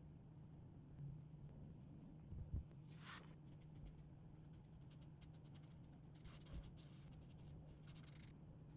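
Faint scratch of a marker tip stroking across paper, one stroke about three seconds in and a few fainter ones later, with a couple of soft low bumps and a low steady hum underneath.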